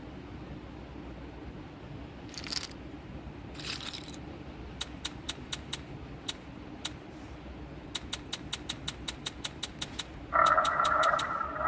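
Online live-casino game sounds: two short soft whooshes, then runs of sharp, rapid clicks, and near the end a louder sustained chime tone with several pitches.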